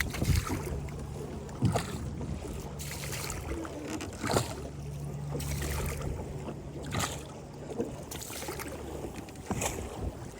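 A boat engine runs with a steady low drone over a rushing of wind and water, and a few sharp thumps come now and then.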